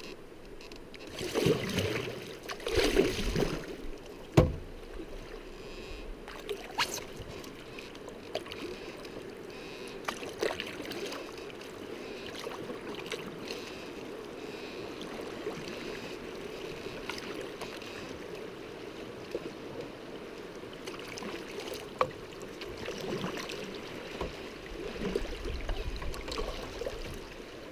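River water rushing steadily around a canoe running fast water, with a few paddle splashes in the first few seconds and a sharp knock about four seconds in.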